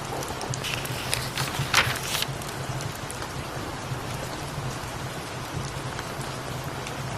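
Steady rain falling, with a cat's low purr running underneath in waves. About a second in there is a brief louder papery rustle, and a few faint crackles come through.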